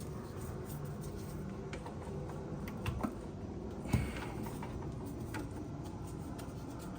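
Hand tools and engine parts being handled: scattered light clicks with two louder knocks about three and four seconds in, over a steady low hum.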